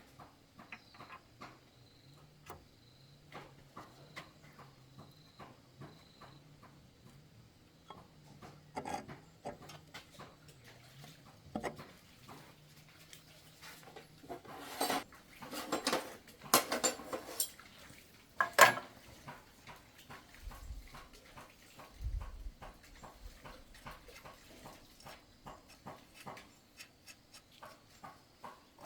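Metal tools and engine parts clinking and tapping in a steady scatter of small clicks, with a louder burst of clattering about halfway through and a couple of dull low thumps soon after.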